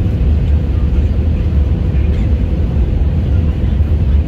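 Airliner cabin noise: a steady low rumble of engines and airflow, with a faint steady hum running through it.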